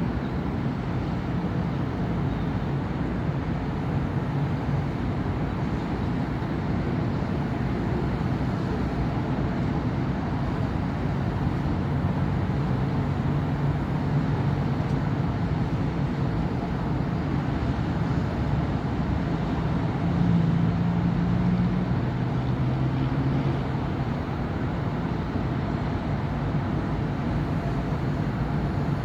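Steady city road traffic: motor vehicles running past with a continuous low engine hum and tyre noise. One passing vehicle is a little louder about two-thirds of the way through.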